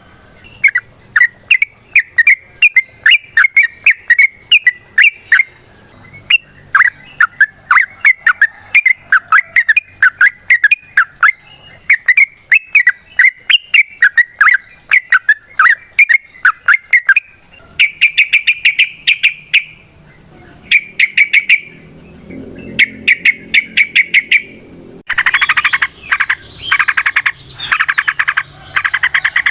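Yellow-vented bulbul (trucukan) calling: a long run of short, sharp, sweeping notes, about three a second, then short chattering trills in bursts. About 25 seconds in, a louder, dense rapid trill takes over.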